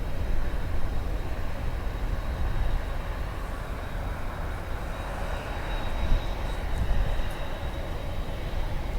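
Jet engine noise from a Boeing 747 on its takeoff run, a steady low rumble that swells to a peak about six seconds in.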